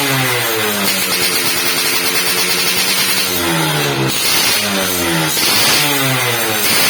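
Suzuki Satria 120 two-stroke motorcycle engine running through a racing-style finned expansion-chamber exhaust, revved in repeated throttle blips, each one falling back in pitch.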